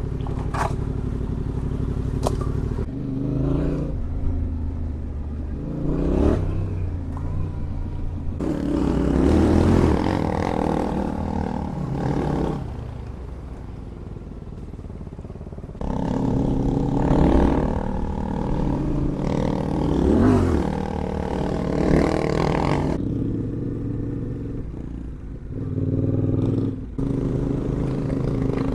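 Adventure motorcycle engine running under way, the revs rising and falling several times as it accelerates and eases off, with rushing air noise over it.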